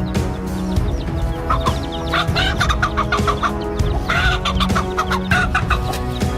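Chickens clucking in several quick runs of short calls, over background music with long held notes.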